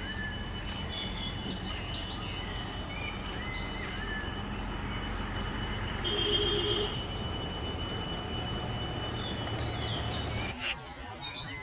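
Birds chirping in short, scattered calls over a steady outdoor hiss, with a thin high whine underneath. About ten and a half seconds in there is a click and the background drops abruptly.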